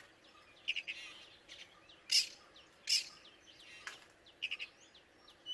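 Songbirds chirping and whistling in a string of short notes, with two louder, harsher notes about two and three seconds in.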